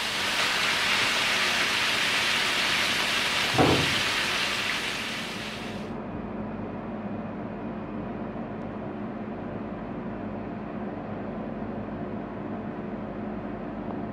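Meat searing in a hot pan: a loud, steady sizzle with one knock about three and a half seconds in. The sizzle cuts off abruptly about six seconds in, leaving a quieter steady hum.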